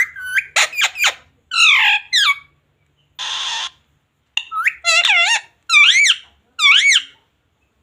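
Parrot calling in a string of sharp squawks, then a short hiss about three seconds in, then three rising-and-falling whistled calls near the end.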